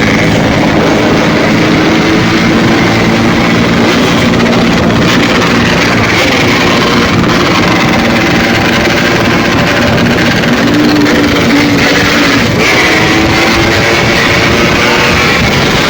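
Several Yamaha RX-King 135cc two-stroke motorcycles with hollowed-out 'bobokan' exhausts running together. They make a loud, steady, buzzing drone, with engine pitches held and shifting a little as throttles are worked.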